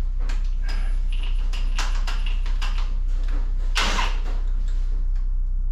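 Steady low hum with irregular knocks and clatters of work on metal over it, and a louder scraping knock about four seconds in.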